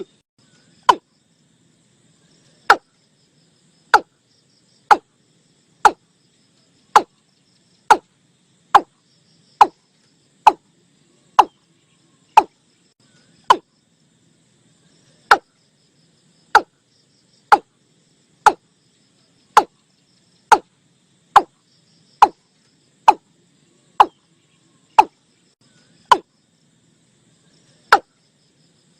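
Watercock calls from a recorded bird-lure track: short, sharp notes that drop quickly in pitch, repeated about once a second with a brief pause partway through.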